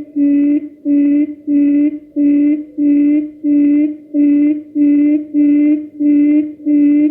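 Recorded quail lure call played on a loop: a low, steady hooting note repeated evenly, nearly twice a second. It is the decoy call used to draw quail into a trap.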